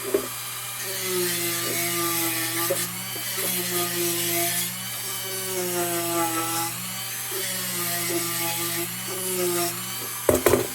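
A power tool's motor running steadily, its sound rising and falling in pitch in repeated strokes every couple of seconds as it is worked. A couple of sharp knocks come near the start and again near the end.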